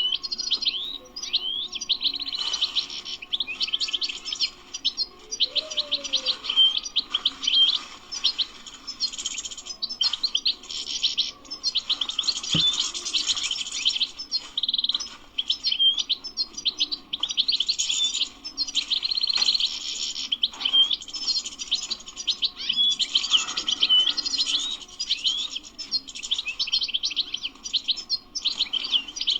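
European goldfinch singing: a long, fast run of twittering notes and trills, phrase after phrase with brief pauses between.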